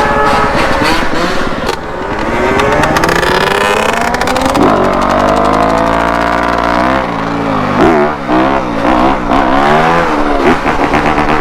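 Yamaha YZ250F's 250 cc four-stroke single-cylinder engine revving under riding, its pitch climbing in a long steady pull about halfway through, then rising and falling quickly in the last few seconds as the throttle is worked.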